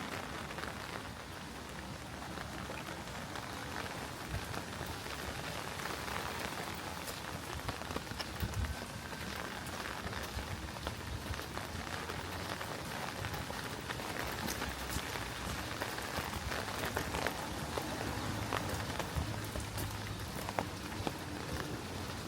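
Steady rain falling and pattering on surfaces, with many individual drops ticking through it. A faint low hum joins in near the end.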